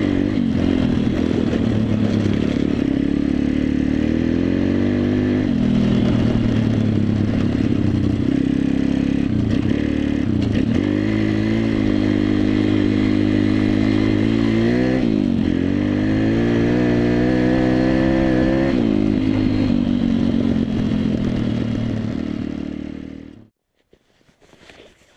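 Pitbike's 140 cc single-cylinder four-stroke engine running under way, its pitch rising and falling several times with throttle and gear changes. Near the end it dies away and stops abruptly.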